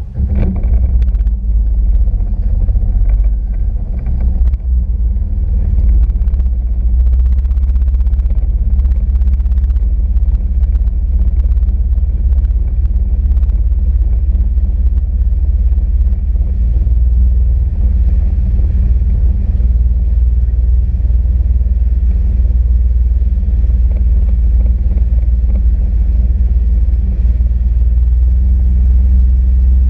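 Sea-Doo RXP-X 260 jet ski's supercharged three-cylinder engine surging up right at the start, then running loud and steady.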